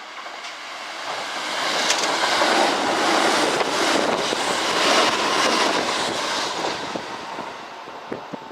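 An electric train passing through the station. Its noise builds over about two seconds, holds loud, then fades near the end, with a few sharp clicks.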